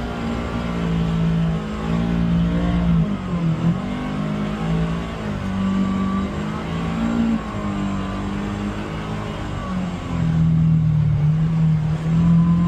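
Polaris Xpedition UTV engine running under load up a steep climb, its pitch rising and falling as the revs change.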